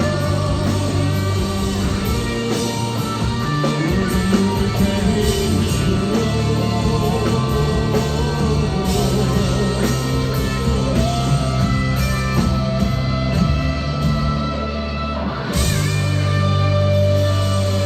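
Rock band playing live: dense sustained chords over a heavy low end, with a rising glide about fifteen seconds in.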